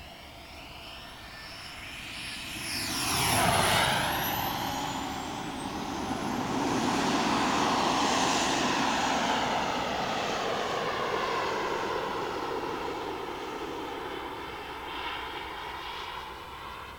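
Jet-Italia Kayman 190 model jet turbine in flight, a high whine over a rushing blast. It sweeps past about three and a half seconds in with a falling pitch, then stays loud through the middle before fading away.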